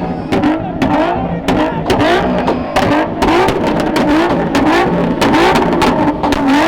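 Car engine revved over and over in quick blips, the pitch swooping up and dropping back about twice a second.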